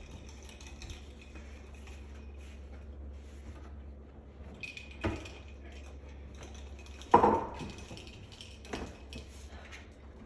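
Hard objects being handled in a kitchen: a knock about five seconds in and a loud, sharp clack about seven seconds in, with a few lighter clicks after, over a steady low hum.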